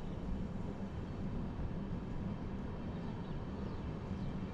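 Passenger train running along the track, a steady low rumble heard from inside the coach.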